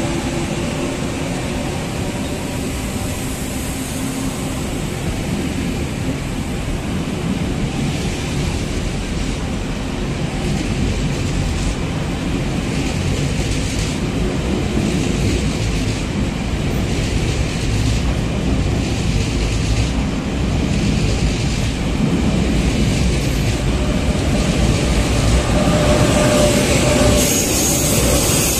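Train running on the rails: a steady rumble and rail noise.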